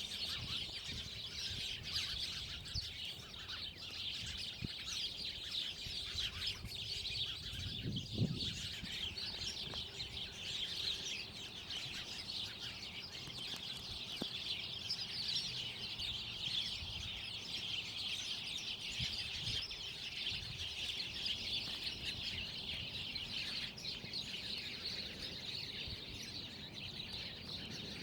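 Many birds chirping in a dense, continuous chatter, with one short low sound about eight seconds in.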